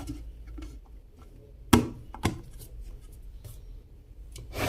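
Electric kettle being handled: scattered small clicks with two sharp knocks about two seconds in, and a dull thump near the end.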